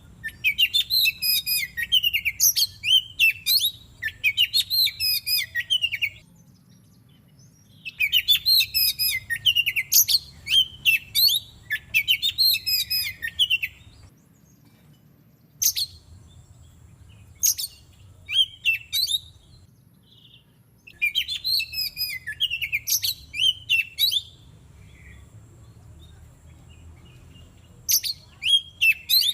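Oriental magpie-robin (kacer) song: loud bouts of rapid, varied whistled phrases lasting several seconds, separated by short pauses, with a few single sharp notes in the gaps.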